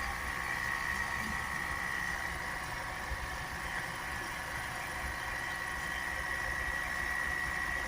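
Ford Transit Custom 2.0 EcoBlue diesel engine idling steadily while an air compressor runs, with a thin steady high whine over a low rumble.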